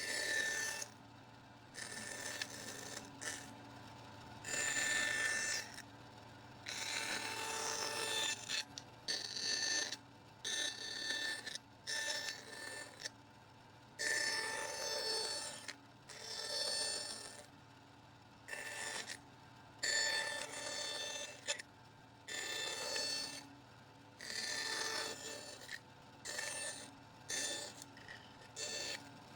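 A run of tool strokes cutting into a material, each lasting up to a second or two with a ringing tone, separated by short pauses.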